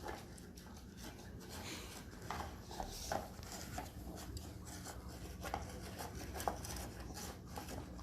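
Faint rustling and scattered light taps over a steady low room hum: a puppy moving about and playing.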